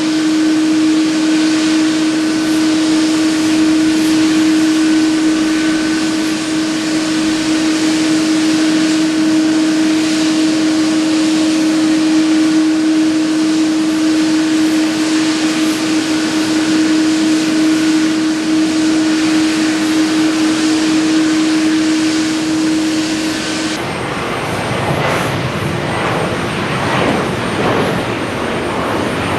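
Airbus A321neo jet engines running steadily, with a strong constant hum and a whine over the noise. About 24 s in the sound changes abruptly: the hum is gone and a rougher, fluctuating engine noise with a thin high whistle takes over.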